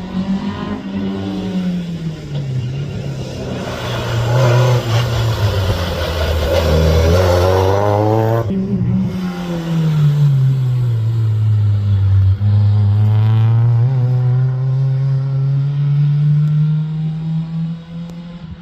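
Rally car engine driven hard, its note climbing under acceleration, breaking off sharply about eight seconds in as the car changes gear or lifts, then falling and slowly climbing again.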